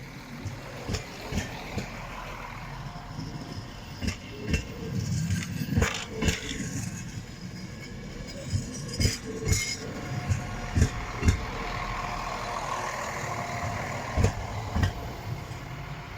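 Train rolling past with a steady rumble and many irregular sharp clanks and knocks from its running gear.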